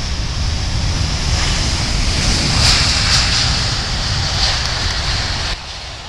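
Loud steady rushing noise with wind buffeting the microphone, dropping suddenly about five and a half seconds in.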